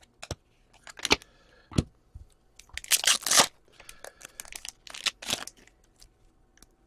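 Foil trading card pack wrapper being torn and crinkled. It starts with three sharp clicks as cards are handled, then two longer rustling tears about three and five seconds in.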